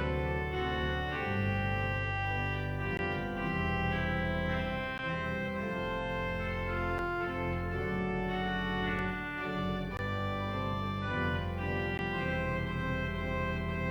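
Church organ playing the postlude: sustained chords over a low bass line, the harmony changing every second or two.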